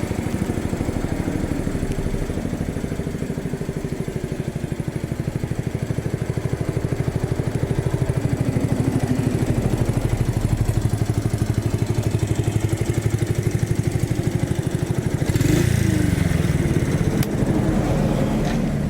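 Honda Super Cub 50's single-cylinder four-stroke engine idling steadily through an aftermarket muffler, with a brief throttle blip near the end where the pitch rises and falls back.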